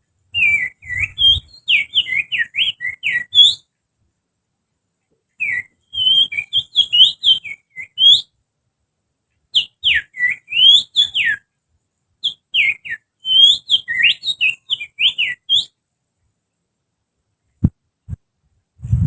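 A person whistling through the fingers in imitation of an oriental magpie-robin (kacer) song: four phrases of quick, sharply rising and falling whistled notes, with short silences between them. A low knock and rumbling come near the end.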